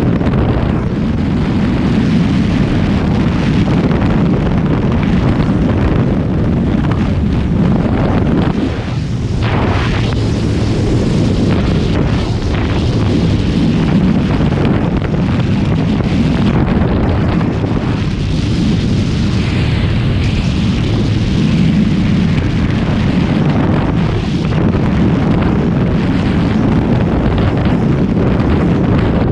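Caterpillar D-series bulldozer's diesel engine running loud and steady, a dense low rumble.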